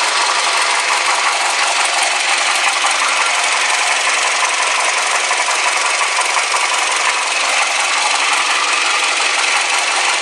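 Scion tC's 2.4-litre four-cylinder engine idling, heard up close in the open engine bay as a loud, steady noise.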